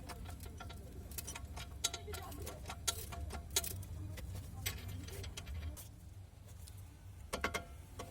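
Irregular metallic clicks and light taps of hand tools at work on a car's front hub and suspension, with a quick run of several clicks near the end.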